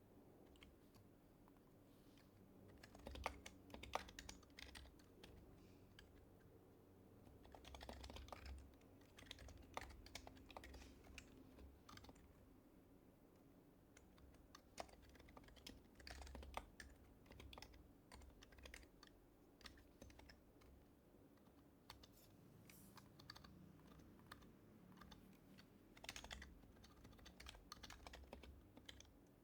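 Typing on an HHKB Professional HYBRID Type-S keyboard, its silenced Topre capacitive keys tapping quietly in bursts of keystrokes separated by short pauses.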